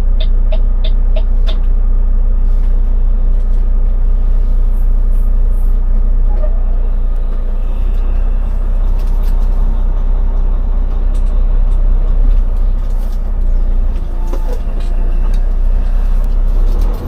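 Steady low engine and road noise of a semi-truck tractor heard from inside the cab while driving. A rapid beeping chime, about three or four beeps a second, stops about a second and a half in.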